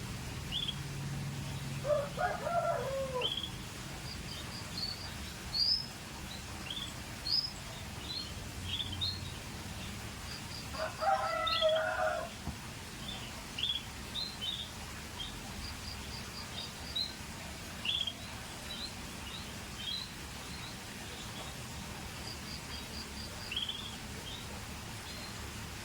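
Scotch Fancy canaries calling in short, high chirps and brief trills scattered throughout, with two lower, longer and louder calls of a second or more each, one near the start and one about halfway.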